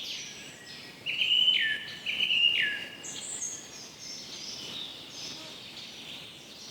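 Songbird singing over a soft outdoor hiss: two louder phrases, each a held whistled note that drops sharply at the end, about a second in and again a second later, then higher, softer chirps and twitters.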